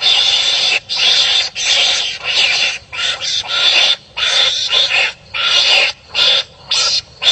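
Wild animals fighting, giving harsh, rasping calls one after another, about one to two a second with brief gaps between them.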